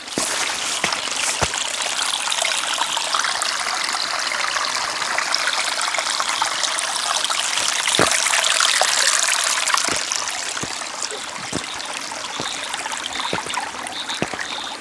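Small rain-fed stream of storm runoff trickling and splashing steadily down over rocks, swelling slightly about two-thirds of the way through.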